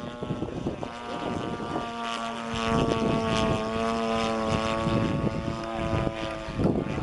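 Engine and propeller of a radio-controlled aerobatic model airplane running in flight. Its steady note comes up clearly about two seconds in, sags a little in pitch and fades near the end.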